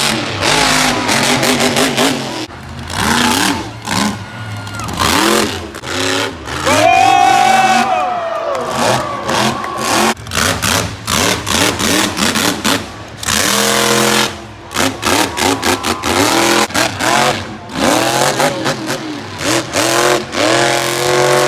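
Monster truck engine revving hard through a freestyle run, its pitch climbing and falling over and over, with frequent sharp cracks of noise throughout.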